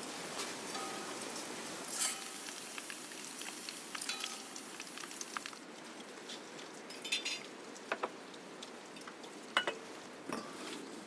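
Food sizzling as it fries in a pan, with a utensil stirring and clinking against the pan several times; the sizzle thins out about halfway through.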